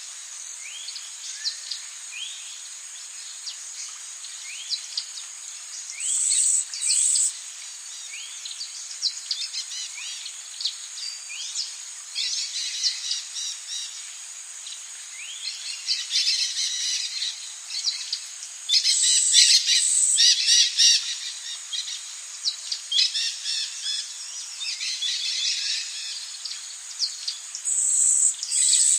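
Rainforest ambience: many birds calling in quick, short rising chirps over a steady high insect drone, with denser clusters of calls several times.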